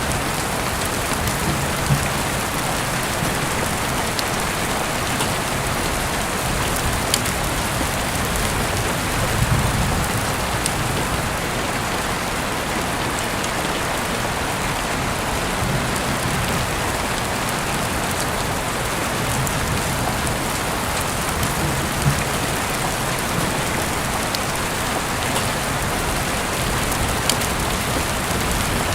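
Steady rain falling, an even hiss with a few sharp ticks scattered through it and soft low swells every several seconds.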